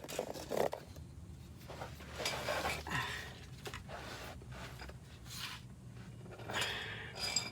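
Intermittent scraping, rubbing and small clicks of car parts and tools being handled during an oil and filter change.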